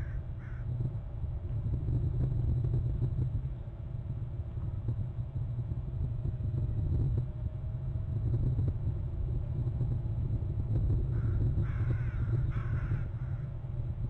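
Bird calls over a steady low rumble: two short calls at the start, then a run of several wavering calls about eleven to thirteen seconds in.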